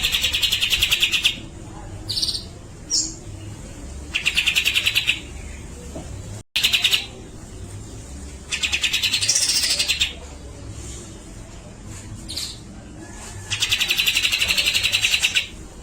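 Grey-cheeked bulbul (cucak jenggot) singing: loud rapid rattling chatters ('besetan'), five bursts each up to about two seconds long, with short single high notes between them.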